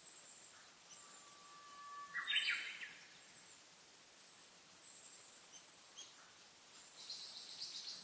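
Wild birds calling in spring woodland. Two plain held whistled notes lead into a short, busier call about two seconds in, the loudest sound. A fast run of repeated high notes comes near the end, over a thin high whistle that keeps stopping and starting.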